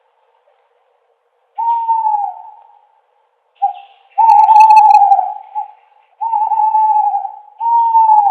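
Owl hooting: a series of about five hoots, mostly about a second long and one of them brief, each held level and then dipping slightly in pitch at its end. The hoots begin after a second and a half of silence and follow closely on one another.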